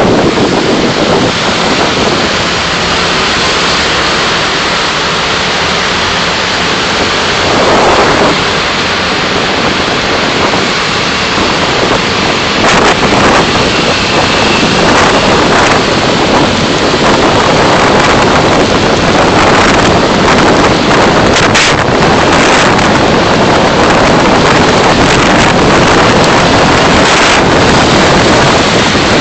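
Loud, steady rushing noise of a car on the move: wind and road noise on the dashcam microphone.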